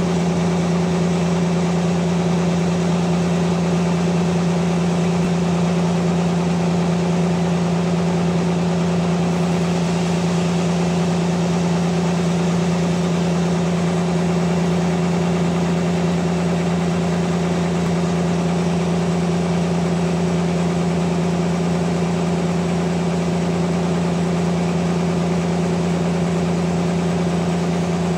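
Sawmill machinery running steadily, a constant low hum with no change in pitch or load.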